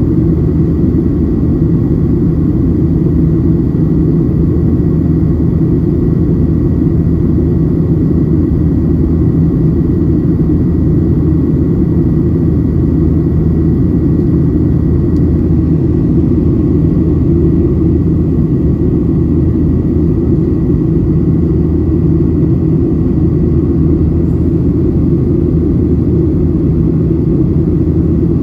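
Steady cabin roar of a Boeing 737-700 in flight: the drone of its CFM56-7B turbofan engines and the rush of air past the fuselage, heavy in the low end, with a thin steady whine above it.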